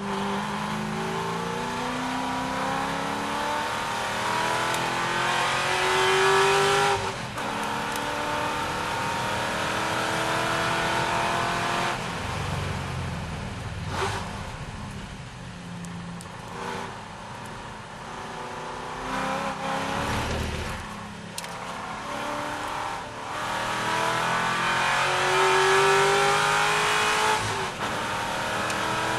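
C6 Corvette's V8 at racing speed, revving hard and climbing in pitch, then dropping sharply at each upshift or lift, with lower, rougher stretches as it slows for corners; this happens several times.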